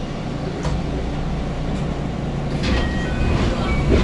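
Inside the cabin of a JR West 221 series electric train standing at a station platform: a steady low hum and rumble from the stopped train, with a few short clicks and faint brief higher sounds from about two and a half seconds in.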